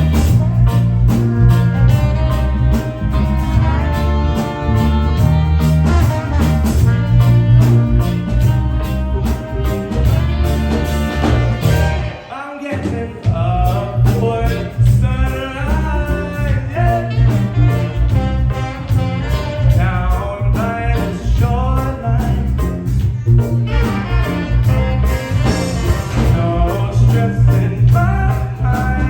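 Live reggae band playing, with a heavy bass line and drums under keys, guitar and a horn section, and a lead voice singing. The whole band cuts out for a moment about halfway through, then comes back in.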